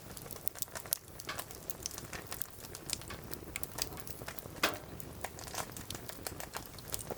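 Firewood burning in a fire pit grill, crackling with irregular sharp pops; the loudest snap comes about four and a half seconds in.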